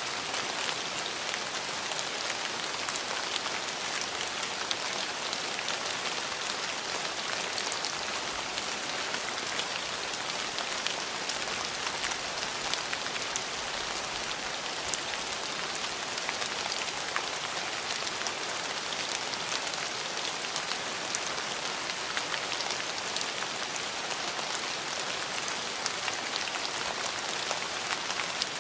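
Steady rain falling on hard surfaces: an even hiss sprinkled with many fine, close drop ticks.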